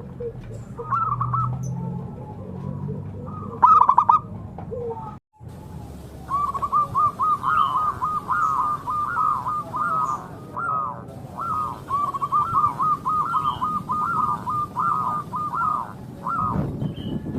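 Zebra dove (perkutut) cooing: fast runs of short, rolling notes. After a short pause a long, unbroken run starts about six seconds in.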